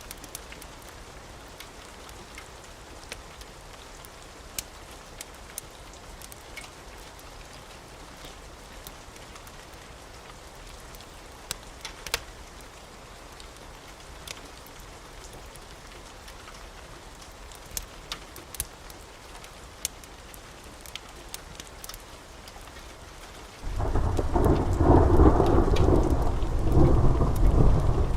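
Wood fire in a fireplace crackling, with scattered sharp pops over a steady soft hiss. About 24 seconds in, a loud low rumble starts suddenly and continues.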